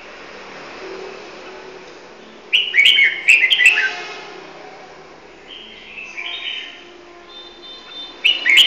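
Caged bulbul singing short phrases of quick, clear whistled notes. There is a loud phrase about two and a half seconds in, softer notes around six seconds, and another loud phrase near the end.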